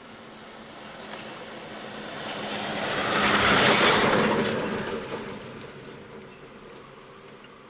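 Ashok Leyland ten-wheel concrete mixer lorry driving past, its engine hum and tyre noise swelling to a peak about three and a half seconds in and then fading away.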